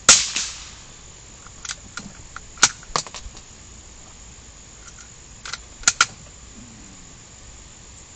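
A single gunshot with a short echoing tail, followed by a scattering of sharp clicks and clacks in two clusters.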